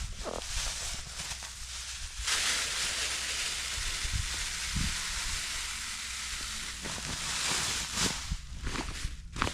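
Kentucky 31 fescue seed being scattered over bare soil: a steady hiss lasting several seconds, with a few short knocks near the start and near the end.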